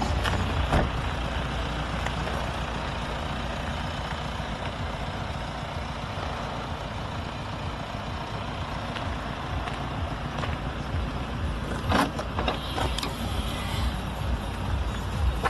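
Steady low rumble of a vehicle running, most likely the Audi A4's 2.0 TDI four-cylinder turbodiesel. A few short clicks come near the end.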